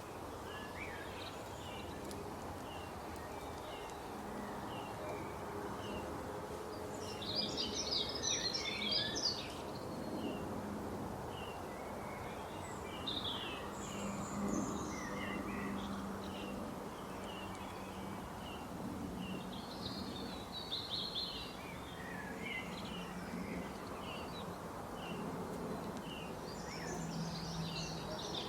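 Small birds chirping in short repeated high notes, with denser bursts of twittering three times, over a steady outdoor background hiss.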